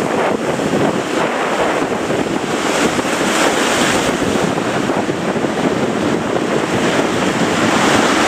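Heavy surf breaking with strong wind buffeting the microphone, a loud, continuous rush that swells slightly toward the end.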